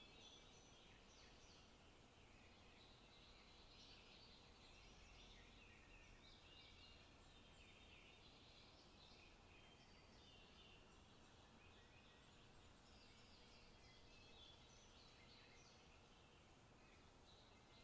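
Faint forest ambience with several small birds singing, many short chirps and trills overlapping, over a soft low background hum.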